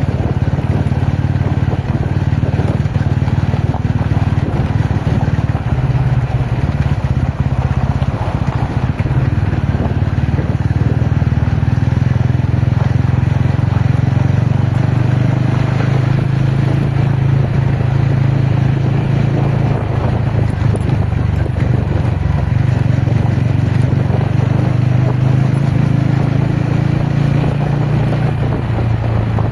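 TVS Ronin's single-cylinder engine running under way, a steady note whose pitch shifts slightly up and down with the throttle a few times.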